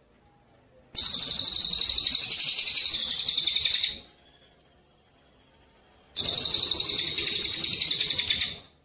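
Songbird song from a bird-training master recording: two loud, rapid rattling trills, the first about three seconds long and the second about two, each made of fast even pulses. A faint steady high tone fills the pauses between them.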